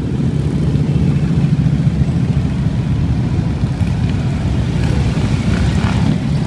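Many motorcycle engines rumbling steadily as a large group of bikes rides past.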